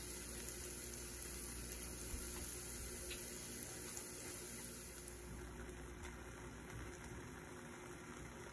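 Chopped onions, then crumbled corned beef, frying faintly in a stainless steel pan: a low steady sizzle with a few small pops.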